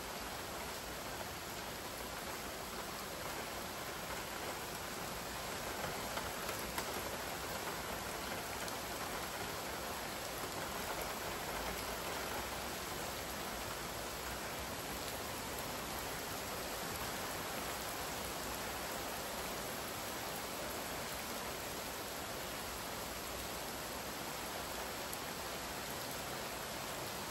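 Steady rain falling, an even hiss of drops, with a few slightly louder drop ticks about six to seven seconds in.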